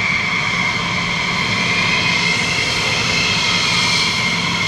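Jet engine running steadily: a loud rushing noise with a steady high whine.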